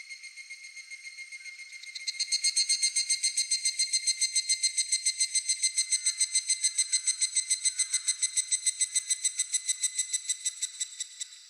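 Higurashi (evening cicada) calling: a ringing, rapidly pulsed trill of several pitched tones. A fainter one pulses at first, then a louder one starts about two seconds in, pulsing at about eight beats a second, and trails off near the end.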